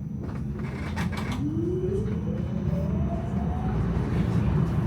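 Electric tram accelerating, its traction motors giving a whine that rises steadily in pitch for about two and a half seconds over a low running rumble. A few short knocks come about a second in.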